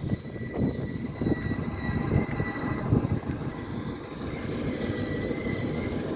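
EMD GP-series diesel switcher locomotive running as it moves, a steady low engine rumble with a thin, steady high whine above it.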